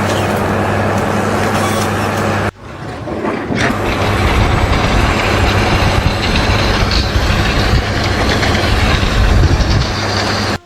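Steady engine or machinery noise with a low hum; it cuts off abruptly about two and a half seconds in, and a louder, low, rumbling noise swells back up and holds.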